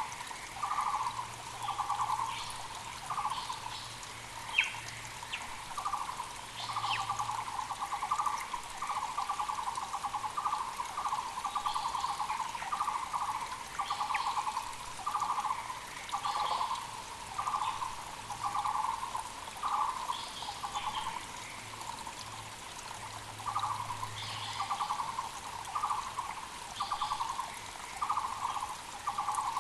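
Muller's barbets (Taiwan barbets) calling, a long run of repeated low notes broken by short pauses. Other birds give short, higher calls over them, with a mountain creek running underneath.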